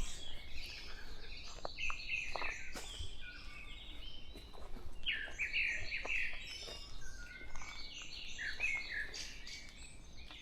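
A dawn chorus of several small songbirds: overlapping chirps and quick down-slurred whistled notes, with no single loud caller.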